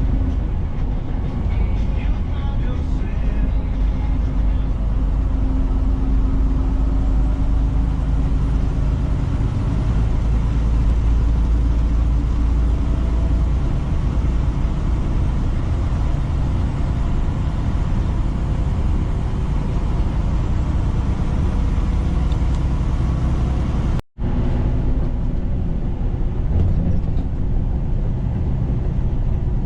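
Semi-truck running down the road, a steady low engine and road rumble with a faint droning tone. The sound cuts out for an instant near the end.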